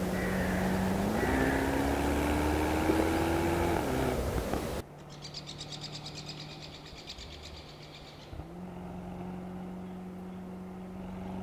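Mercedes-AMG SL 63's 4.0-litre twin-turbo V8 accelerating: the engine note holds steady, then climbs for a few seconds before easing off. After a cut about five seconds in, the V8 is quieter and cruises at a steady pitch, then rises again under acceleration near the end. A high pulsing chirring is heard for a couple of seconds after the cut.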